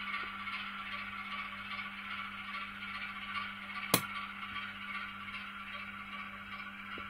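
N gauge model Class 08 shunter running slowly on DC, its small motor and wheels on the rails giving a steady light whirring rattle, with one sharp click about four seconds in.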